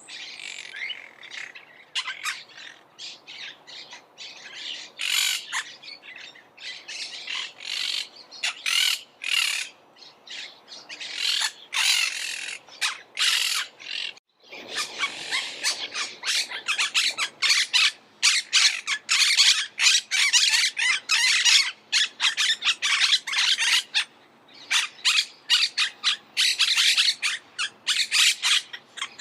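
Monk parakeets giving rapid, harsh squawking calls, several birds calling over one another. About halfway through there is a brief break, and then the calling grows denser and louder.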